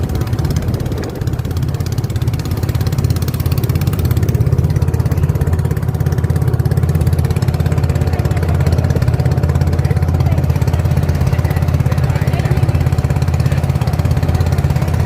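Motorboat engine running steadily with a low, fast, even throb.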